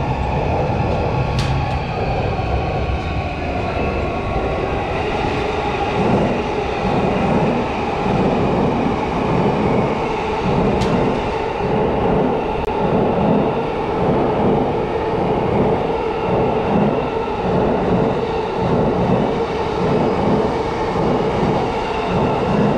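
Electric commuter train running on its rails: a steady rumble, with a regular rhythmic clatter from the wheels setting in a few seconds in, under a steady motor hum.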